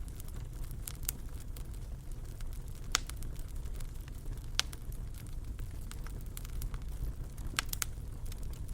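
Wood fire burning in a fireplace: a steady low rumble of the flames with scattered sharp crackles and pops, the loudest pops about three seconds in, just past halfway, and a quick pair near the end.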